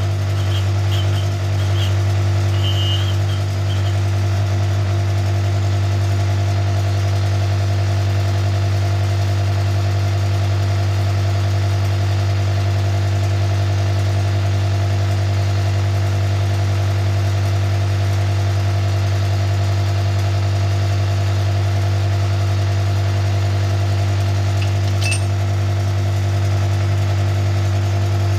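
Rod cap cutter running steadily with a constant electric-motor hum, used to cut the parting faces of connecting-rod caps. A few short high-pitched squeaks come in the first few seconds, and a single sharp tick comes near the end.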